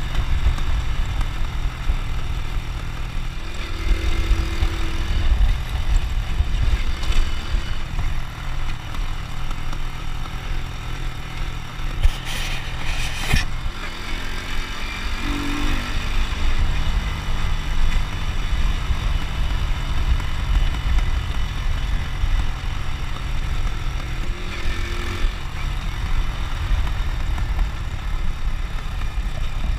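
Honda Win motorcycle's small single-cylinder four-stroke engine running steadily under way, with wind rumbling on the microphone. A brief hiss comes about twelve seconds in.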